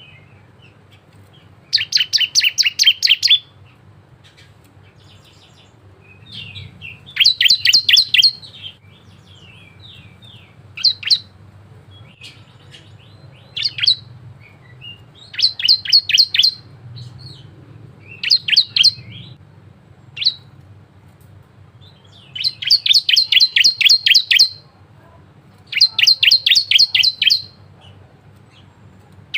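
Bar-winged prinia (ciblek) singing. About eight bursts of rapid, evenly repeated high chirps, each lasting a second or two, are separated by short single notes and brief pauses.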